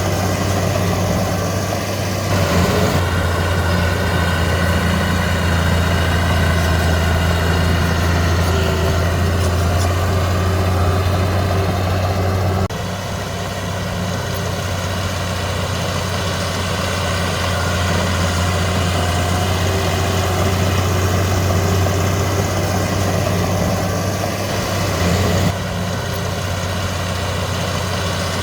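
Heavy diesel earthmoving machinery running at a steady low pitch, with no revving; the sound shifts abruptly in level and tone three times.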